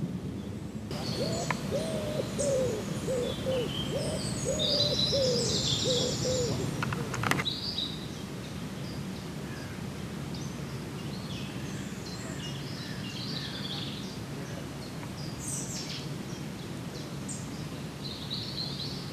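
A bird calling in a run of low hooting notes, about two a second for some five seconds, while small birds chirp higher up throughout; a single sharp click comes near the middle.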